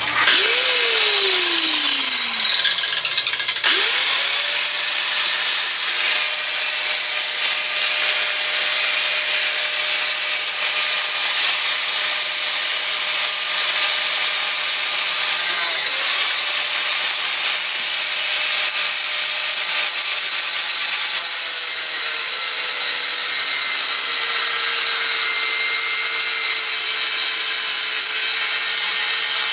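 Angle grinder cutting 5160 spring steel. The motor winds down in the first few seconds, then starts again and runs at a steady whine over the hiss of the cut. It dips briefly about halfway through and drops in pitch under load for the last several seconds. The cut is slow going through the hard steel.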